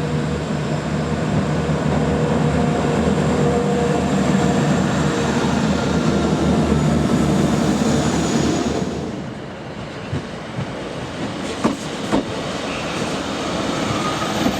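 Class 175 diesel multiple unit moving through the station platform, its diesel engines running with a steady pulsing throb and the wheels clicking over the rails. About nine seconds in, the engine sound falls away, leaving a few sharp wheel clicks.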